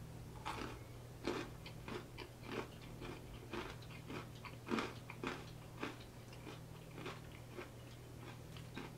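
Close-up crunching and chewing of KFC extra crispy fried chicken: irregular crisp crunches of the breading, one or two a second.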